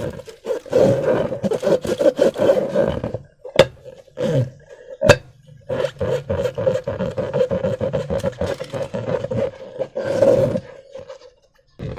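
Slime and rubber balloons being worked by hand: a continuous squelching, rubbery rubbing with a steady buzzing pitch and a few sharp clicks, stopping briefly near the end.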